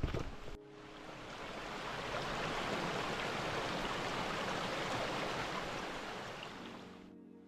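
Rushing water of a stream: a steady hiss that swells in and then fades away.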